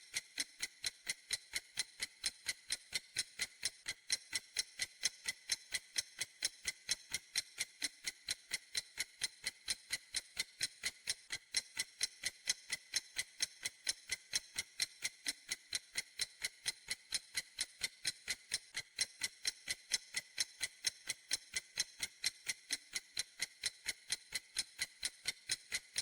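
Clock ticking steadily, a bright, high click about three to four times a second in an even rhythm, cutting off suddenly at the end.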